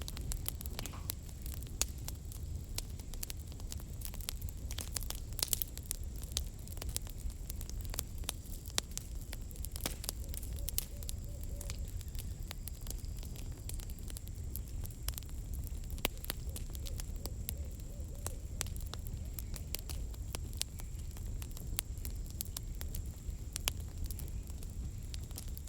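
Campfire burning, with the firewood giving frequent irregular sharp snaps and pops over a low steady rumble.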